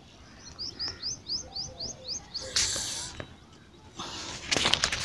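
A small bird chirping: a quick run of about eight short, high, rising chirps, about five a second, in the first two seconds. A brief hiss and a few clicks and rustles follow near the end.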